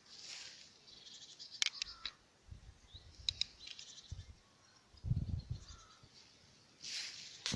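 Small songbirds chirping and twittering in short high calls, with a few sharp clicks and some low rumbles from handling or wind on the microphone.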